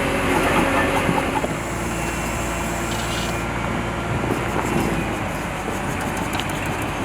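A vehicle or machine engine running steadily, with a low hum under a constant outdoor noise.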